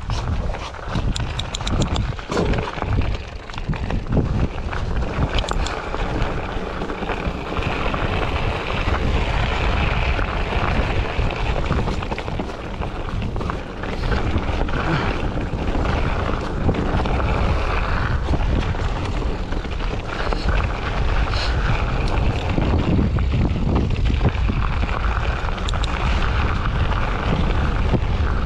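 Wind buffeting the microphone of a camera carried on a moving bicycle: a steady, loud low rumble, with a few short clicks in the first few seconds.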